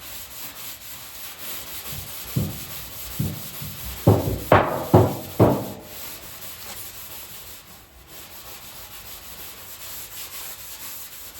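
Scrubby pad rubbing back and forth on the rusty steel hood of a 1967 VW Beetle, scouring off surface rust. About halfway through comes a run of five or six harder, louder strokes.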